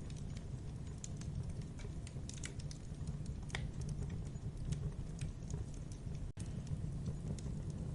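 Campfire burning: irregular crackles and pops of the wood over a low, steady rumble of the flames. The sound breaks off for an instant a little after six seconds in.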